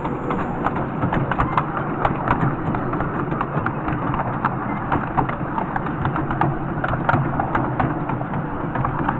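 Miniature railway train running along the track: a steady rumble with frequent, irregular clicks from the wheels on the rails.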